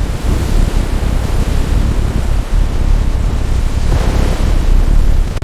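Loud, dense rumble of a stormy sea: waves and wind, heaviest in the low end, with a wave crash swelling up about four seconds in.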